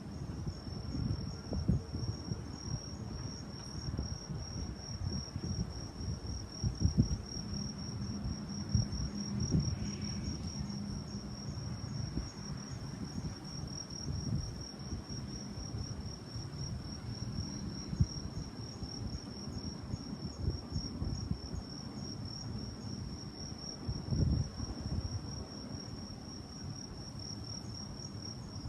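An insect trilling steadily at a high pitch with a fine rapid pulse, under irregular low gusts of strong wind buffeting the microphone.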